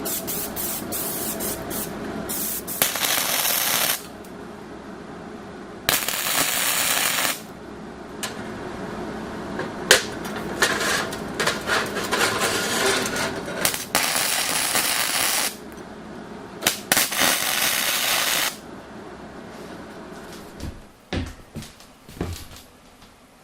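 Power saw with a new blade cutting steel stock in several separate cuts of one to five seconds each, running more quietly between them. A few knocks come near the end.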